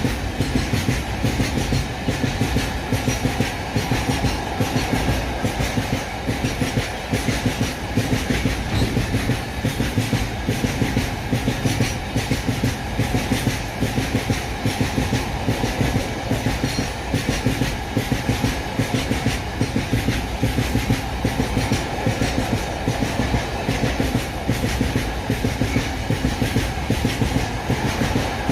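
Goods train of open wagons rolling steadily past, its wheels clicking over the rail joints in repeating groups of clicks over a continuous rumble.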